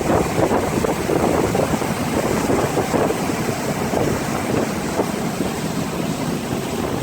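Bass boat running on the water with its outboard motor driving it along, the noise steady throughout and overlaid with wind buffeting the microphone.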